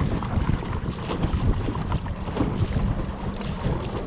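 Wind buffeting the microphone, with choppy waves slapping against a kayak hull in a steady low rumble and irregular knocks.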